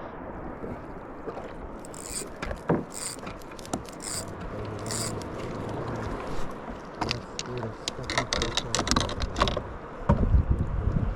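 Knocks, scrapes and short splashy bursts of handling gear and water around a kayak, with a loud low rumble of wind or handling on the microphone near the end.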